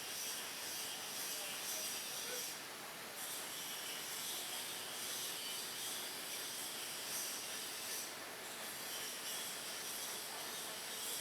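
Large facing lathe running: a steady hiss with a faint high-pitched whine above it, its texture shifting slightly a few times.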